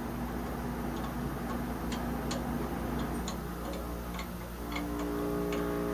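Light, irregular metal ticks as a collet is worked loose from a CNC lathe spindle with a collet tool, over a steady low machine hum.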